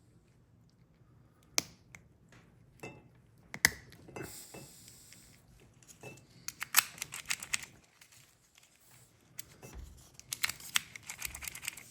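Small metallic clicks and scrapes of a car door lock cylinder being handled and reassembled by hand, with a few single clicks and then short runs of rapid clicking.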